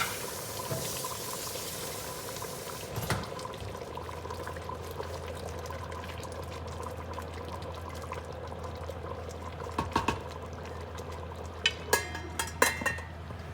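Coconut-milk curry with chicken and shrimp bubbling in the pot, with a brighter hiss for the first three seconds. Near the end a quick run of utensil clinks against the pot.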